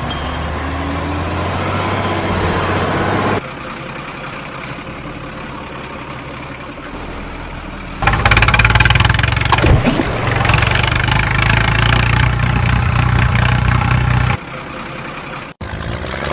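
Tractor engine running steadily, in stretches that change abruptly: louder from about 8 s to 14 s, quieter before and after, with a sudden cut near the end.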